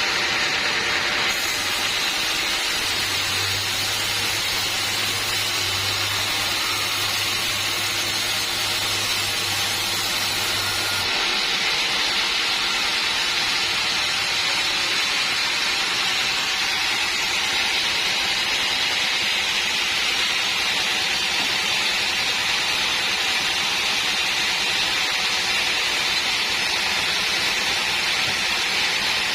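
Sawmill machinery running with a steady hissing noise, with a low hum added from about three to eleven seconds in.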